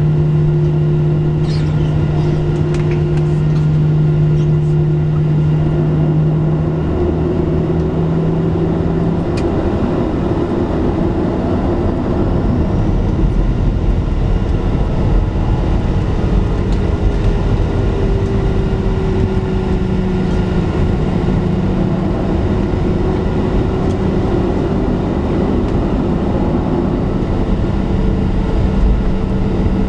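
Cabin noise of a Boeing 737-700 heard from a window seat: its CFM56-7B jet engines running with a steady hum and rumble. A low steady drone drops out about a third of the way in, and a deeper rumble comes up about halfway through.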